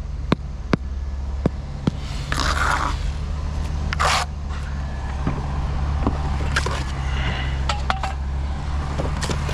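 A run of sharp, evenly spaced clicks, about two and a half a second, stops about two seconds in. Several short scraping sounds follow, over a steady low hum.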